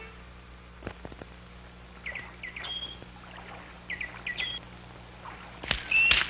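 Birds calling: two quick groups of short, falling chirps a couple of seconds apart, then a louder call with sharp clicks near the end, over a faint steady hum.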